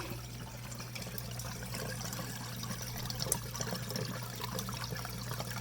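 Dishwasher draining: water trickling and flowing through the sink-top air gap and drain line, over a steady low hum of the running drain pump. The flow is the sign that the clog in the drain path has been cleared.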